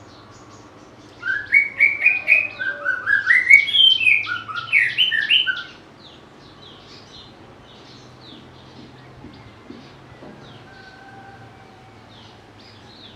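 White-rumped shama singing a loud run of quick, varied whistled notes, starting about a second in and lasting about four and a half seconds. Faint chips and thin whistles from other birds go on before and after.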